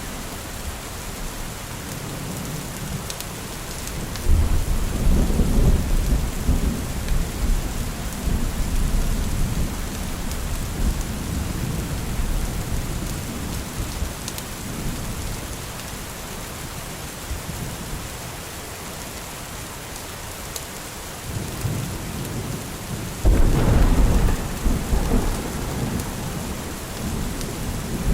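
Steady rain falling, with two rolls of thunder: one breaks suddenly about four seconds in and rumbles for several seconds, and a second, louder clap comes near the end.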